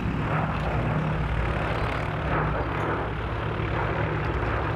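Boeing B-17G Flying Fortress in flight, its four Wright R-1820 Cyclone radial engines droning steadily.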